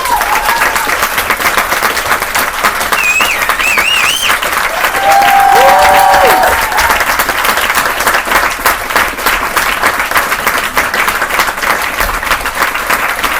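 Crowd applauding steadily, with a warbling whistle about three seconds in and a short cheer a couple of seconds later.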